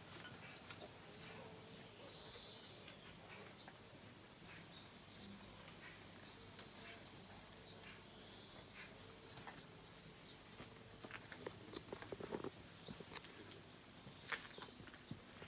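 A small bird chirping over and over, short high chirps about twice a second, with a brief rustle about three-quarters of the way through.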